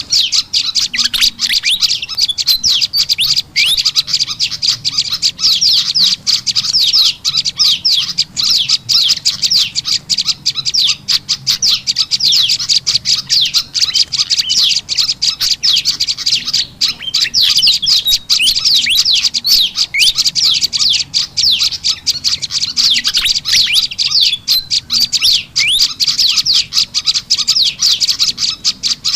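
Bird-lure recording of small songbirds: prenjak lumut calls mixed with the agitated chattering of kipasan (fantails). It is a dense, unbroken run of rapid high chirps and short downward-sliding whistles.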